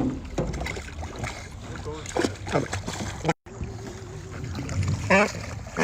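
Steady low rumble of wind on the microphone out on a small boat on open water, with a few short voice sounds. The sound cuts out briefly about three and a half seconds in.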